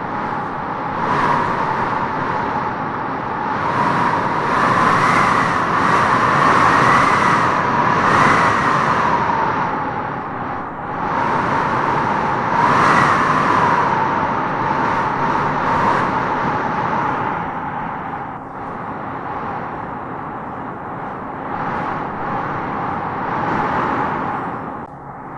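Wind blowing in gusts that swell and ease, with a whistling howl that rises and falls, strongest a few seconds in and again about halfway through.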